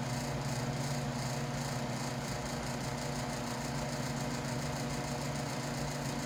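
Electric shop fan running with a steady hum and an even, pulsing whir.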